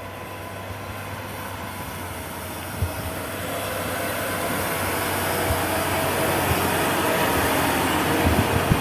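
Heavy sand truck's engine working under load on a steep climb, growing steadily louder, with a knock about three seconds in and a few more near the end.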